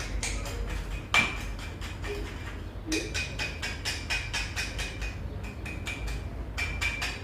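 Rapid, evenly repeated metallic clicking from hand-tool work on a scooter engine's cylinder and piston, with one sharper metal knock about a second in.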